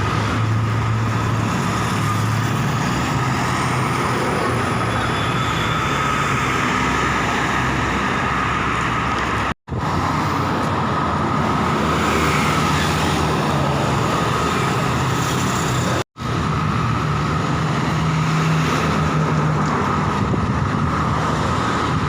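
Road traffic with trucks and buses going by: steady engine and tyre noise with a low engine hum. It breaks off sharply twice, at cuts in the recording.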